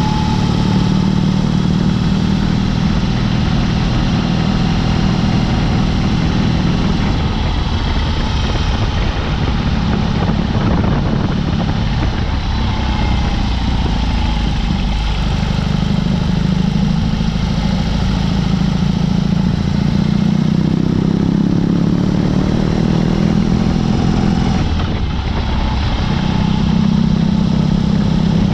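BMW R18's big boxer-twin engine running under way through a Dr. Jekill & Mr. Hyde aftermarket exhaust. The engine note drops away and builds again several times as the throttle comes off and on, over a low wind rumble.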